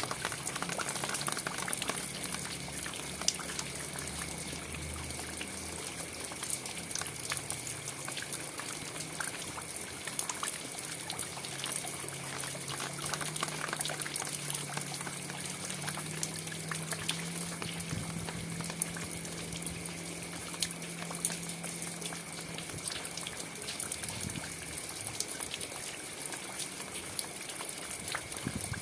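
Steady rain falling: a constant hiss with many separate drops striking. A steady high tone and a faint low hum run underneath.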